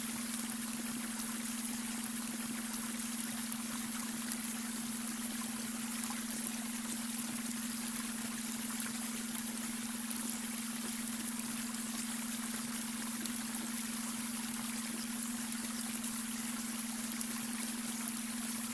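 Babbling brook water flowing and trickling steadily, with a steady pitched tone under it: the beta-wave brainwave tone mixed into the water sound.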